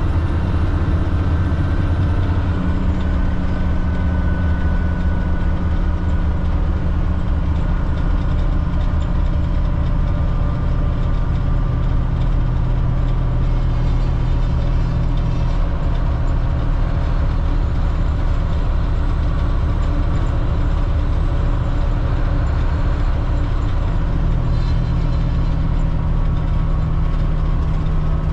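Cat C7 diesel engine of a 2005 Blue Bird All American front-engine bus running steadily, its note shifting slightly a few times.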